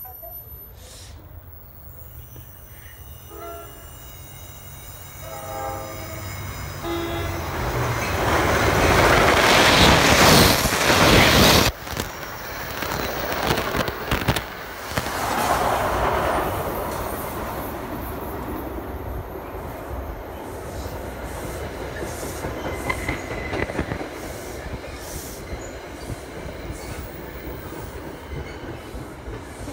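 NJ Transit electric passenger train sounding its horn on approach, then passing close at speed. A loud rush builds, peaks and drops off abruptly, and the cars then roll past steadily with regular wheel clicks over the rail joints.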